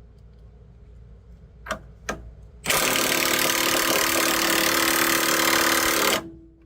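Two clicks, then a power tool runs steadily and loudly for about three and a half seconds and stops abruptly.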